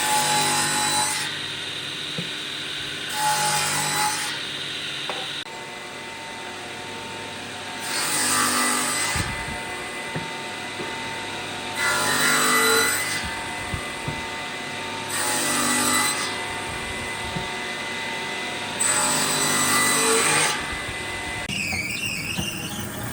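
An electric woodworking tool runs steadily while wood is fed through it, giving a louder cutting or sanding pass about every three to four seconds.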